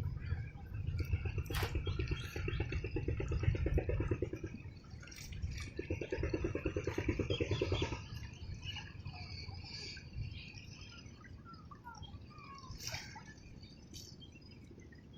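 Small birds chirping and calling in short sliding notes. A low, rapid, rhythmic rumble comes and goes twice in the first half.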